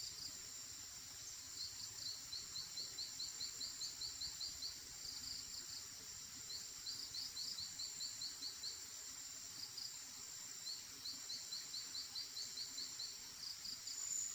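Forest ambience: a steady high insect drone, with runs of quick chirps at about four or five a second, each run lasting a couple of seconds and recurring every few seconds.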